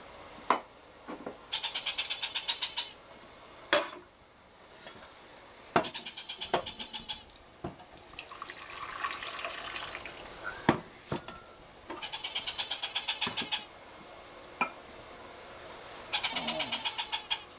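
Hungry hand-fed parrot chicks begging with rapid, stuttering chirps, in four bursts of about a second each, with a few sharp clicks between them.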